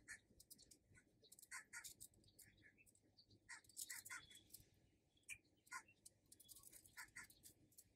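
Near silence, with faint, scattered bird chirps, often in pairs, every second or so.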